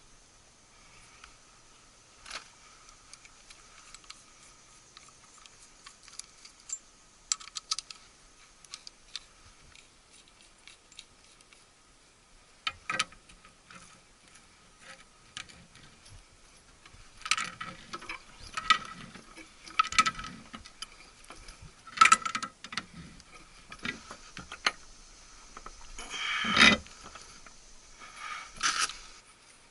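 Scattered metallic clinks, clicks and knocks of small metal objects being handled, sparse at first and busier and louder in the second half.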